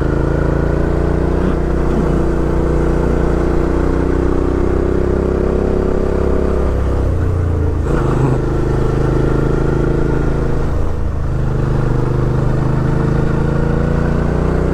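Suzuki V-Strom 650 XT's 645 cc V-twin engine pulling the motorcycle up a steep road under load. The engine note sinks and breaks off around eight seconds in and again near eleven seconds, then climbs again toward the end, with wind rush over the microphone throughout.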